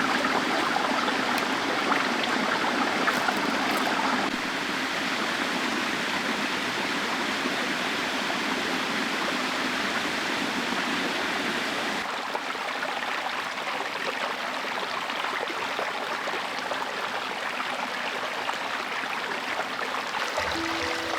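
Stream water running steadily. The rushing changes level abruptly, dropping slightly about four seconds in and again about twelve seconds in.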